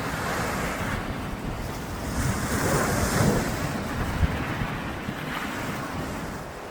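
Sea waves breaking and washing on the shore, the surge swelling to its loudest about halfway through, with wind buffeting the microphone.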